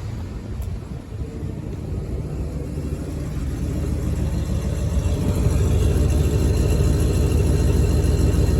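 The 1971 Mercury Marquis Brougham's 429 two-barrel big-block V8 running at idle just after start-up, growing steadily louder over the first five seconds or so and then holding even.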